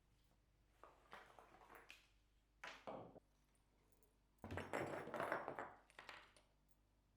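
Quiet handling noises: a few short scrapes and light knocks, then a longer clatter about four and a half seconds in.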